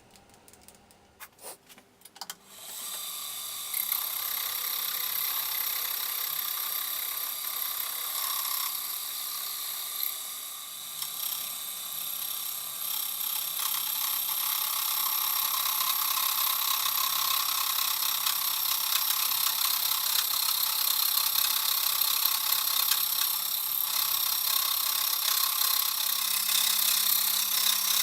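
A few clicks, then a powered machine tool starts cutting metal about two and a half seconds in and runs steadily, with a high, even whine.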